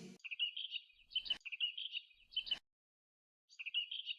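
Small birds chirping: quick runs of short high notes in two phrases of about a second each, a pause, and a third phrase starting near the end.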